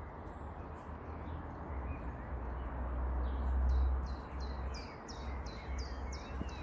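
Outdoor ambience with a low wind rumble on the microphone, strongest about three to four seconds in. From about four seconds in, a small bird calls in a quick run of short, high, downward chirps, about three a second.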